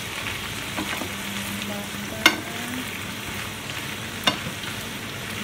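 Whole prawns sizzling in butter in a frying pan while a wooden spatula stirs them, with two sharp knocks of the spatula against the pan, about two seconds apart.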